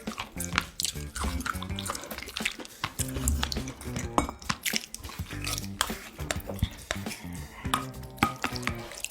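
Metal spoon and chopsticks clinking and scraping against bowls and dishes during a meal, in many short, irregular clicks over background music.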